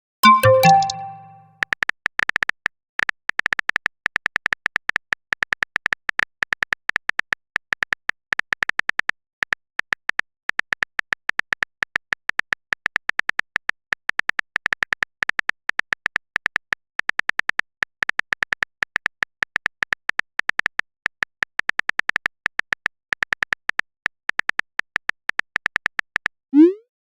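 A phone message notification chime at the start, then a long run of rapid on-screen keyboard typing clicks, several a second with brief pauses, as a text message is typed out.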